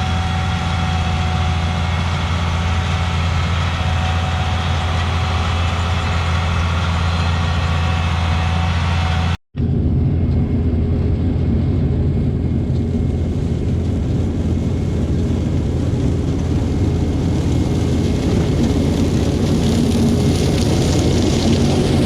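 Heavy diesel farm machinery of a sugar beet harvest running steadily with a deep, even hum. The sound breaks off for an instant about nine and a half seconds in and comes back rougher and noisier.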